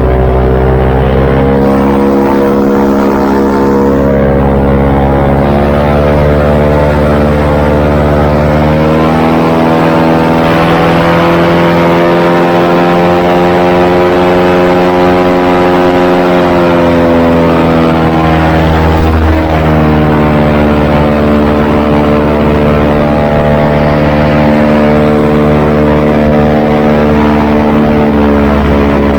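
Airboat engine and air propeller running loud. It speeds up about nine seconds in, holds, then eases back to a lower speed a little after nineteen seconds.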